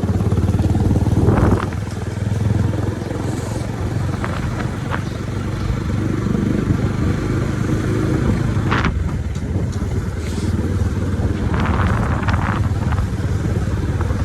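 Motorcycle engine running steadily while riding, with a few brief clicks and rattles on top.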